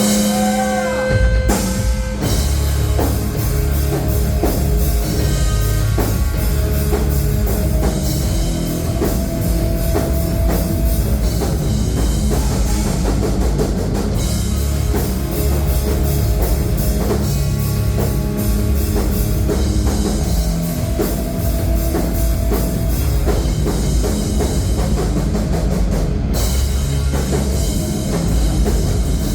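A live rock band playing a loud heavy song on drum kit, guitars and bass. A held note opens, and the full band comes in about a second in.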